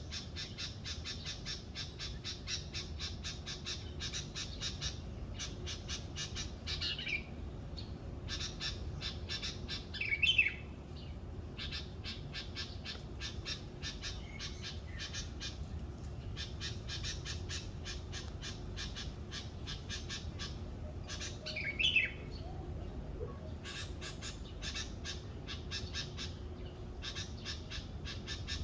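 Wild birds calling in the morning: a fast, even pulsing chirr runs with short breaks, and harsh squawking calls stand out a few times, loudest about ten seconds in and again about twenty-two seconds in.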